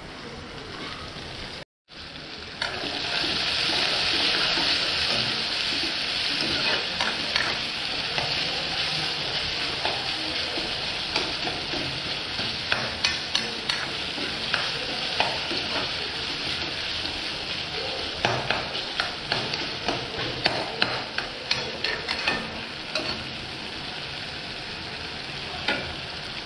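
Chopped onion and tomato sizzling in hot oil in a pan, with a spatula clicking and scraping against the pan as it is stirred. The sizzle turns loud a couple of seconds in and eases near the end.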